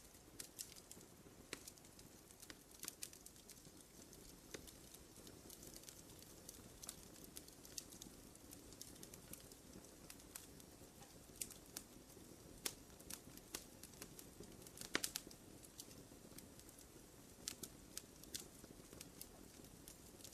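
Campfire of burning wood crackling: faint, irregular sharp pops and snaps over a soft low rush of flame, with the loudest pop about fifteen seconds in.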